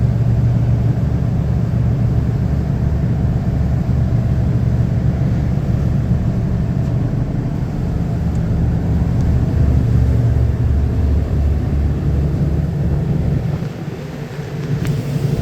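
Ferry's engine running with a steady low drone and a fast, even throb, heard on board. The drone drops off briefly near the end.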